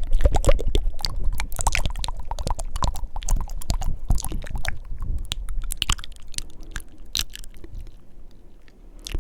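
Fast, wet mouth sounds made close to the microphone: tongue clicks and lip smacks in quick succession, thinning out and getting quieter near the end.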